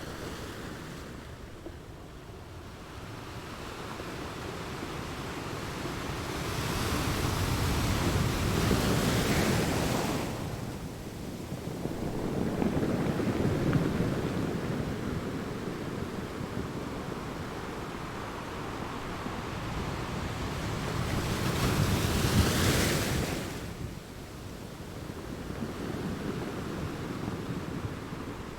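Ocean surf washing in and out, rising and falling with each wave; two larger waves break, one about a third of the way in and one about three quarters of the way through.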